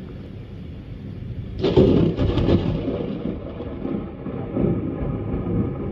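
A thunderclap: a sudden sharp crack about a second and a half in, followed by thunder rumbling on and slowly fading.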